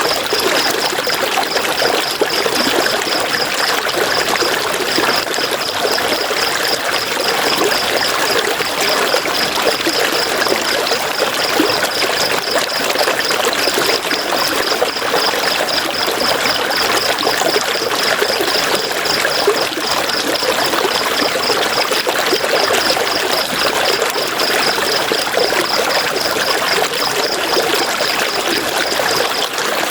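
River water rushing steadily. Over it, a high chirp pulses rapidly, a few times a second, with brief pauses now and then.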